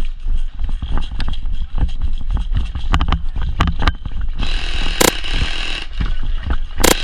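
Airsoft gunfire: scattered single shots cracking, then a continuous rapid-fire burst of about a second and a half, with sharp loud cracks about five and seven seconds in, over a steady low rumble.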